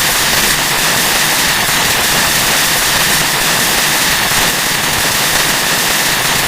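Harsh noise music: a loud, steady wall of crackling hiss, strongest in the highs, with a held high band running through it.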